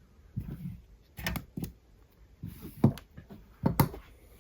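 Several short clicks and light knocks of small tools and phone parts being handled and set down on a work surface, the sharpest near three and four seconds in.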